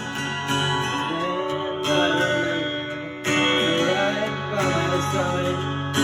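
Acoustic guitar played in a slow improvised passage, with chords strummed and left to ring and a fresh strum about every second and a half.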